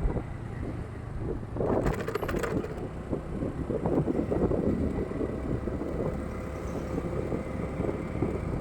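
Vehicle on the move: a steady low engine and road rumble, with a brief clatter about two seconds in.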